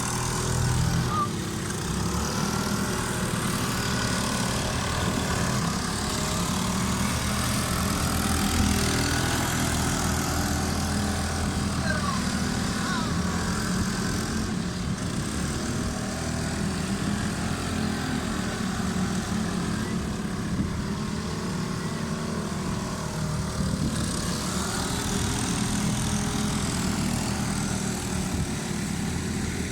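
Several bumper boats' small motors running steadily together, an even engine drone.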